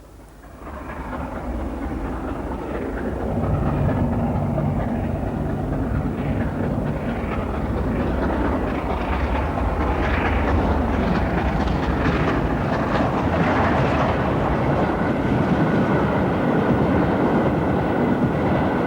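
Steam locomotive Mallard, an LNER A4 Pacific, running with its train. The sound builds over the first few seconds and then holds as a steady, dense rush of engine and train noise.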